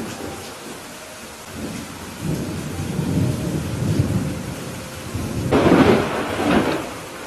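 Steady rain with thunder: a low rumble of thunder builds from about two seconds in, then a louder, sharper crack of thunder about five and a half seconds in that dies away before the end.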